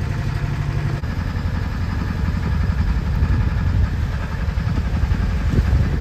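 Sailing yacht's engine running under way while motoring. A steady low hum gives way to a rougher, louder rumble about a second in.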